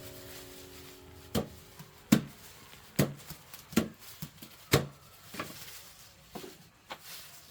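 Chopping with a blade: a steady series of about eight strokes, one every second or less, some louder than others, each with a dull thud.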